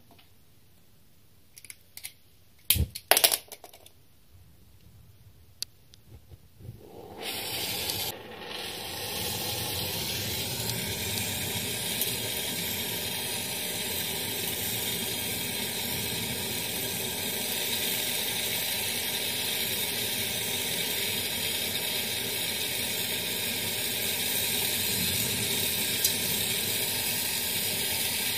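A few sharp clicks, then about seven seconds in a gas brazing torch flares up and burns with a steady hiss for the rest of the time, as used for soldering refrigerator copper tubing.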